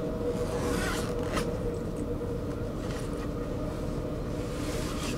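Commuter train running, heard from inside the carriage: a steady rumble under a steady electric hum, with brief hissing scrapes about a second in and again near the end.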